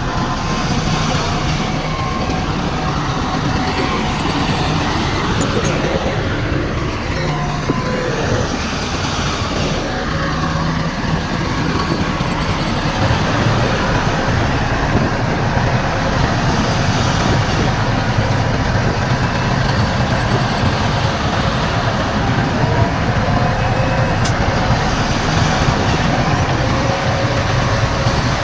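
Heavy diesel earthmoving machinery, a bulldozer and dump trucks, running steadily at work, a continuous loud engine drone with rough mechanical clatter over it.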